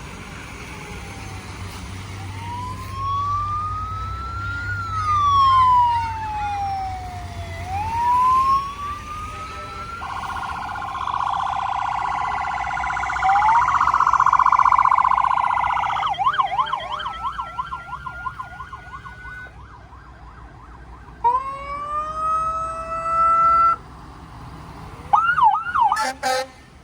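Emergency-vehicle sirens: a slow wail that rises and falls, a stretch of loud rough blaring, then a fast warbling yelp, a siren winding up about three-quarters of the way in, and short quick yelp bursts near the end.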